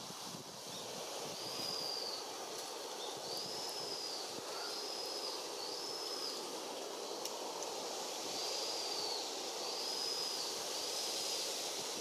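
A bird calling: short, clear whistled notes, each rising and then falling, about one a second in two runs with a pause in the middle, over a steady outdoor background rush.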